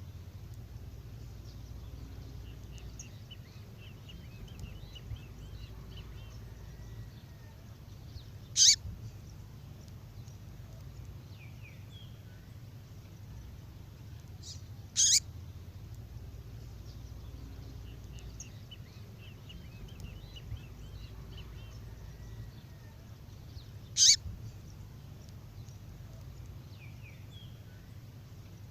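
Recorded female songbird call: short, sharp, high call notes several seconds apart, with faint high twittering between them, repeating like a loop over a low steady hum.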